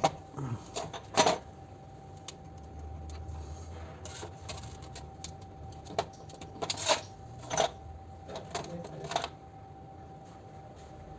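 Utility-knife blade scratching alignment marks into the metal parts of a disassembled camshaft adjuster: a scattered series of short scrapes and clicks. The louder scrapes come about a second in and several more between six and nine seconds in.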